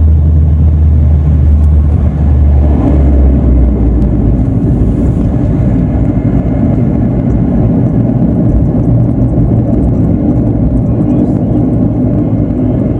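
Turboprop airliner cabin noise: the engines and propellers run loud and steady with a low drone, and about two and a half seconds in the sound changes to a rougher, fuller noise as the engine setting shifts.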